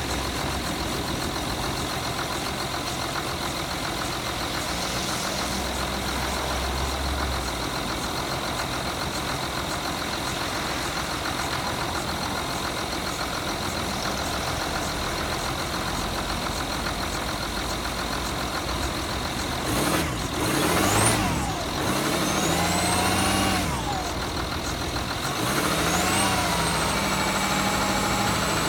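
Jaguar XF 2.7 TDV6 twin-turbo V6 diesel idling, then revved in three short blips about two-thirds of the way through and held at a higher, steady speed near the end. The owner's complaint is a misfire in the first 30–60 seconds after a cold start.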